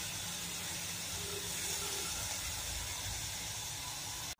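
Bitter gourd (karela) pieces frying in oil in a kadhai over a low flame: a steady sizzle that cuts off suddenly near the end.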